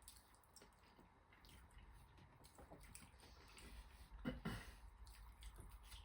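Faint wet chewing and mouth sounds of someone eating, with small scattered clicks and one louder soft knock about four seconds in.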